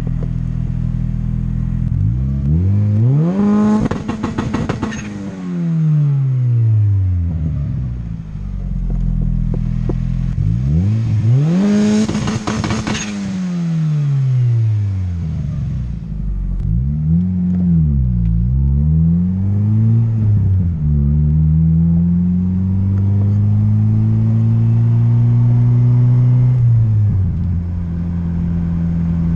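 Acura Integra's B18C GSR 1.8-litre four-cylinder, run with a full exhaust, is revved hard twice up to the two-step anti-lag limiter set at 6,500 rpm. It crackles and pops at the top from the 30 degrees of ignition retard and 10% extra fuel, and the revs fall away after each run. Then come two quick blips and a steady rising pull, with the revs dropping back near the end.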